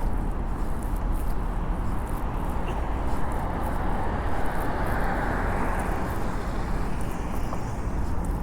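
City street traffic: a steady low rumble, with a car passing about halfway through, its tyre noise swelling and fading.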